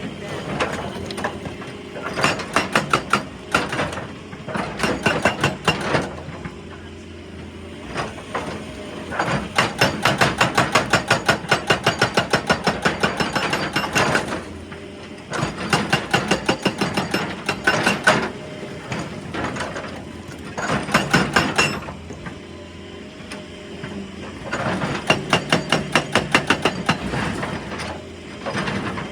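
Excavator-mounted hydraulic breaker hammer pounding rock in runs of rapid blows, several a second, each run lasting one to four seconds. Between runs the machine's engine runs steadily.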